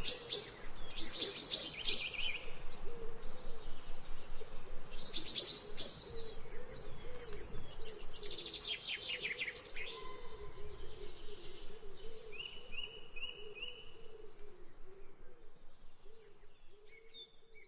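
Many songbirds chirping and trilling at once, a dense dawn-chorus-like ambience that fades out gradually toward the end.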